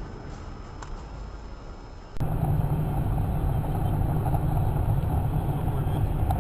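Steady road and engine noise of a moving car picked up by a dash camera inside the car. About two seconds in it switches abruptly to a louder, deeper rumble.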